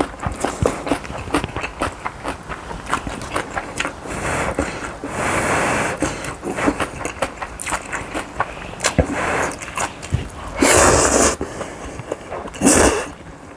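Close-miked eating sounds: chewing with quick clicks and taps of utensils throughout, broken by three louder rushing bursts, one in the middle and two near the end.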